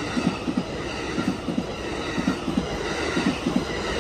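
Amtrak Coast Starlight passenger cars rolling past close by, their wheels knocking in quick pairs over the rail joints above a steady rumble.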